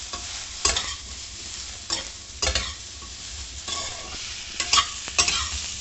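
Chunks of eggplant and flat beans sizzling in hot oil in an aluminium kadai. A metal spatula stirs them, scraping and knocking against the pan in several short strokes over the steady frying hiss.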